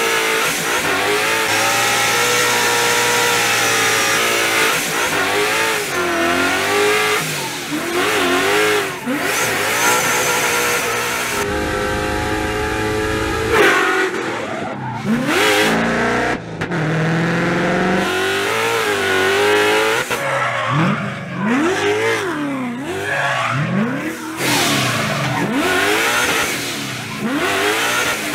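Ford Mustang RTR drift car's engine revving up and down over and over as it slides sideways through corners, with tyre noise from the drift.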